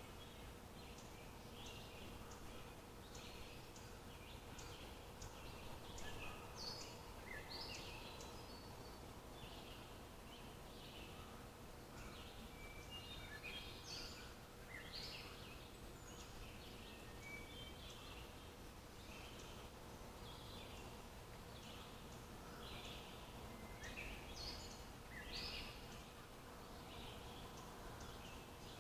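Songbirds chirping and calling, many short high chirps one after another, faint over a low steady background hiss and hum.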